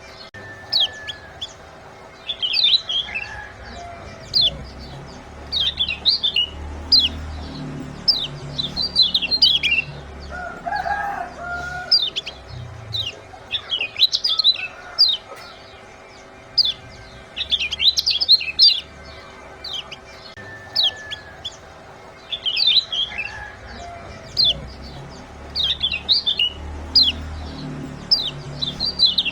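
Dense clusters of sharp, high chirping calls from small songbirds, a looped 'ciak' chirp track played to provoke caged birds into song; the same chirp sequence comes round about every eight seconds, over a faint steady hum.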